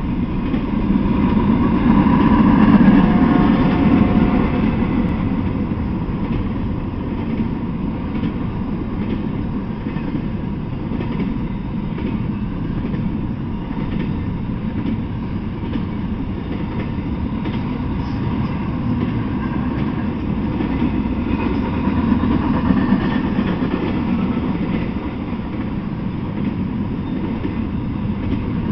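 Freight train of intermodal well cars loaded with shipping containers rolling past at a steady speed: a continuous rumble of steel wheels on the rails with faint clicking from the wheels, swelling louder a couple of seconds in and again near the end.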